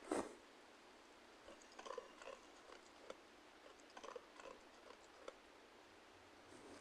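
Near silence with a few faint, short taps and clicks scattered through it, the plainest one just at the start.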